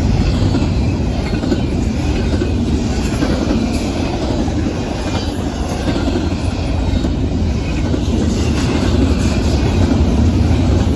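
Double-stack freight train cars rolling past at close range, a steady loud rumble of wheels on rail with rattling and clickety-clack from the track joints.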